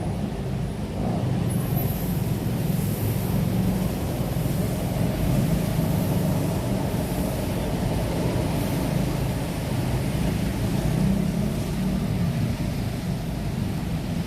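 Steady low rumble of city road traffic, with no distinct events standing out.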